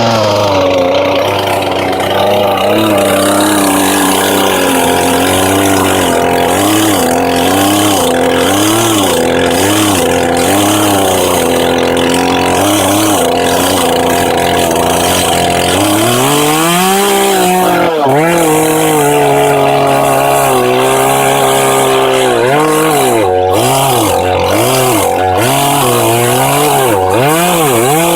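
Two-stroke chainsaw running under load as it cuts through a log, its engine note rising and sagging about once a second as the chain bites into the wood. About sixteen seconds in it revs up sharply, then drops back and keeps labouring in the cut.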